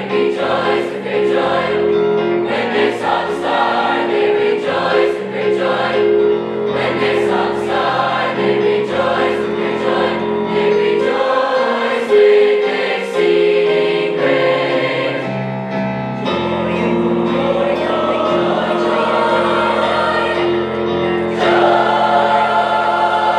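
High school choir singing a Christmas song with musical accompaniment, held chords over a steady bass line.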